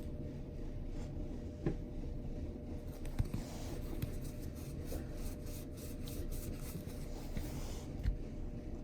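Faint handling noise: a few light taps and soft rubbing as the coin ring and nail file board are handled, over a steady low hum.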